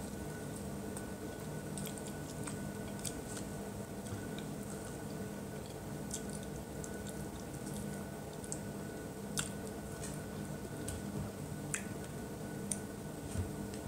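Close-up mouth sounds of a person eating fried chicken: chewing and biting, with scattered sharp crunches and smacks, over a steady low hum.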